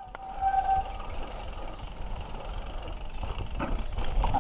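Mountain bike riding over a dirt trail: the tyres and the bike's rattle, with wind rumbling on the camera microphone. There is a brief high squeal within the first second and a sharp knock about three and a half seconds in.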